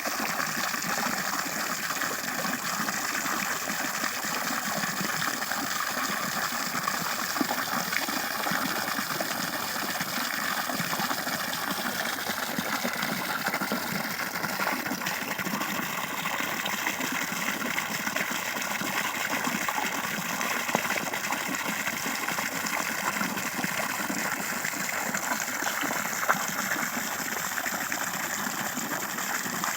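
Water rushing steadily, an even unbroken rush.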